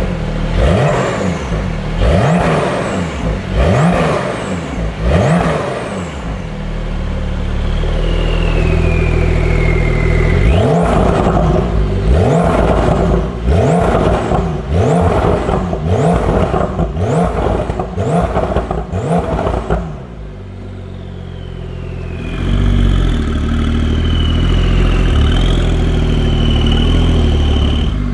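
Porsche 992 Carrera S twin-turbo flat-six through a stainless-steel FI Exhaust sport exhaust, revved in quick blips about once a second. The blips come in two runs, each followed by a few seconds held at a steady higher engine speed, the last with a high whine over it.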